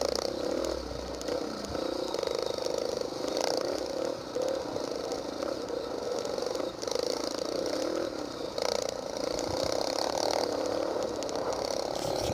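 Mini motocross bike engines running, their pitch wavering up and down as the riders work the throttle.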